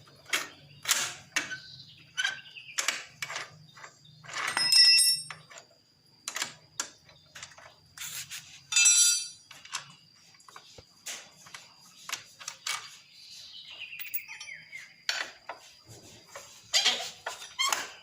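Wrench working the rear exhaust hanger bolt of a Honda Supra X motorcycle's exhaust: an irregular run of sharp metal clicks and knocks as the bolt is loosened, with two brief ringing metallic clinks about five and nine seconds in.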